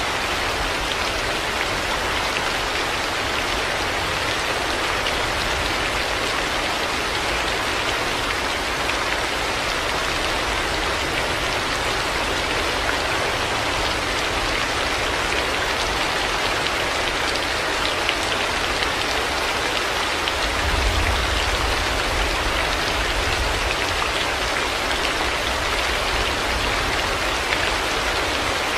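Heavy rain falling steadily, an even hiss of drops hitting the ground. A low rumble swells briefly about two-thirds of the way through.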